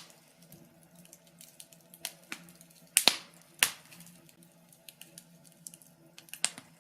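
Wood fire crackling in a fireplace: scattered light ticks with a few sharp pops, the loudest pair about three seconds in and another near the end.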